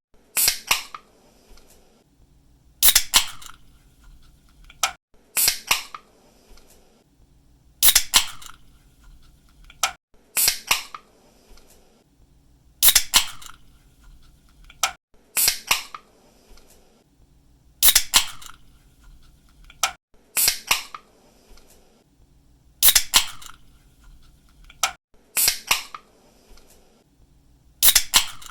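Aluminium drink can pull-tab being cracked open over and over, about every two and a half seconds. Each opening is a sharp snap followed by a short fizz of escaping carbonation.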